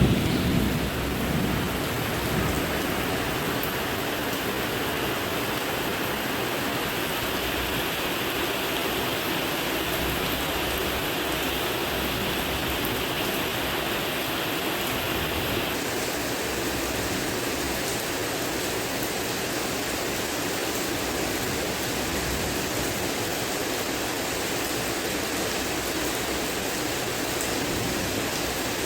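Steady heavy rainfall hissing, with the last of a thunder rumble dying away in the first couple of seconds. About halfway through, the hiss changes tone abruptly.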